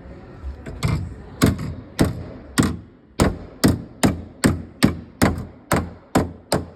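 Hammer blows on car sheet metal, about a dozen sharp strikes at a steady pace of roughly two a second. The body panel is being knocked back toward shape after a rear-end collision.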